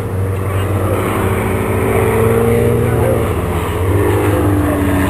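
Propeller aircraft engines running steadily during a flying display, with held tones that shift pitch a couple of times.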